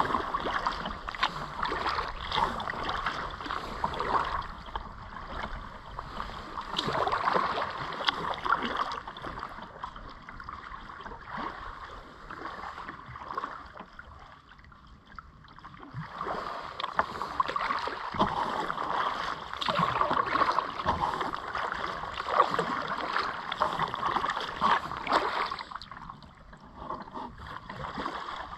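Kayak paddles dipping and splashing in the river water, stroke after stroke, with water moving past the hull; the level swells and fades, quieter for a couple of seconds midway.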